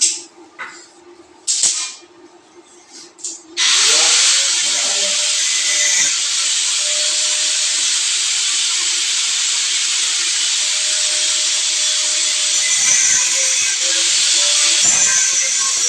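Power sprayer spraying water: a few short hissing spurts, then from about three and a half seconds in a loud, steady hiss of continuous spraying, with a faint wavering hum of the pump underneath.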